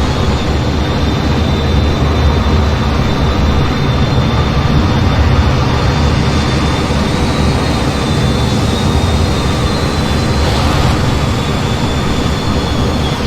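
F-15 jet engines running steadily: a loud, even rumble with a thin high whine that drifts slightly in pitch.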